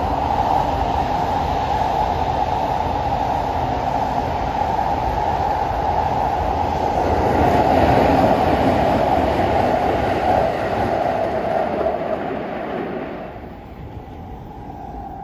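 Electric commuter train passing on the tracks below, a steady rumble that grows to its loudest about eight seconds in and fades away about thirteen seconds in.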